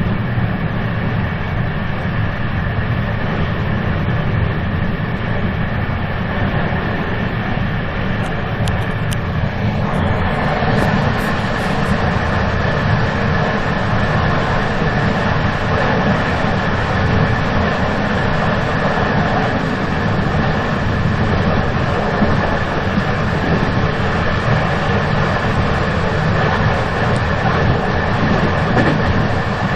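Moving train running steadily: a continuous deep rumble with a steady high whine over it. About a third of the way in the sound turns brighter and hissier and stays that way.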